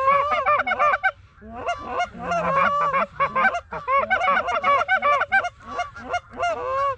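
A flock of geese honking, many calls overlapping in rapid succession, with a short lull about a second in.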